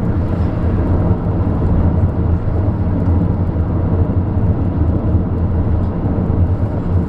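Steady low rumble of road and wind noise inside a car driving at speed.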